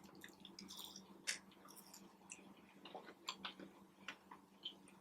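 Faint chewing of a fried chicken sandwich: scattered soft, wet mouth clicks and smacks.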